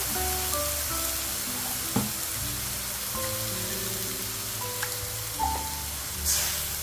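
Tempeh, anchovies and chillies frying with ground spice paste in a wok, a steady sizzle, with a brief louder hiss near the end. Soft background music plays over it.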